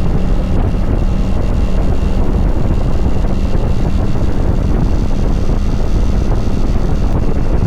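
Kawasaki Vulcan 900 V-twin motorcycle being ridden at a steady speed, its engine note holding even, under heavy wind buffeting on the microphone.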